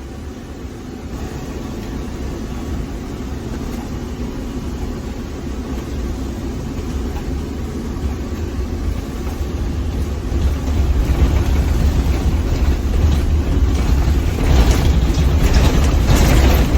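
Motorhome engine and road noise heard from inside the cab as it drives: a steady low rumble that grows gradually louder, stepping up about ten seconds in.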